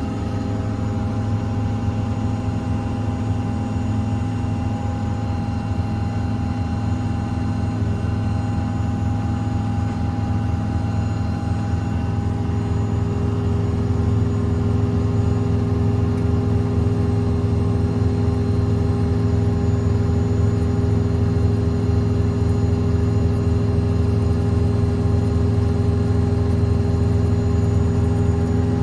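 Ford F550's 6.7-litre Power Stroke V8 diesel running with its PTO-driven hydraulic air compressor working: a steady machine hum that gets a little louder, with an added tone, about halfway through.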